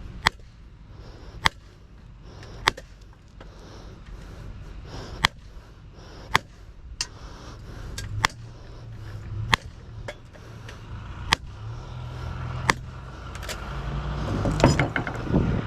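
Sharp single hammer blows on an electric motor, about one every second or two, knocking the copper windings loose. Under them a vehicle engine's low rumble grows louder in the last few seconds.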